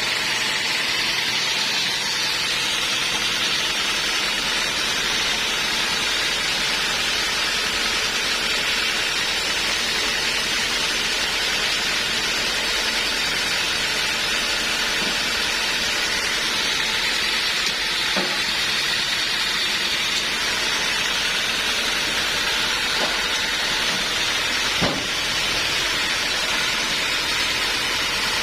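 Homemade band sawmill running, its blade cutting through a teak log with a steady hissing saw noise. Two brief knocks break through, one about two-thirds of the way in and a louder one near the end.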